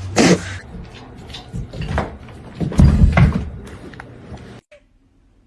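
Scattered knocks and thumps, with a loud noisy burst right at the start and a louder cluster of low thuds midway, cutting off abruptly to near silence about four and a half seconds in.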